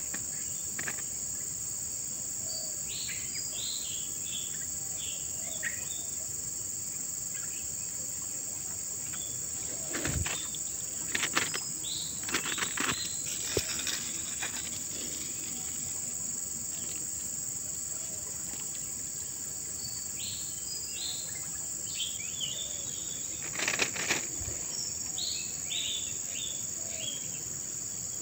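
Insects giving a steady, high-pitched drone, with bursts of short chirps around three to five seconds in and again in the last third. A few brief knocks or rustles come about ten to fourteen seconds in and again near twenty-four seconds.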